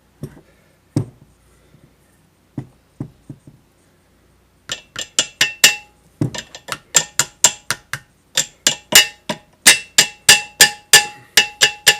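Hammer blows on metal, driving a new seal into place: a few light taps, then a steady run of about four ringing strikes a second.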